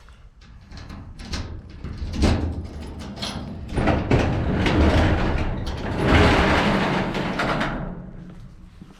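Garage door being opened: scattered knocks and rattles, then a long continuous rolling rattle for several seconds that fades out near the end.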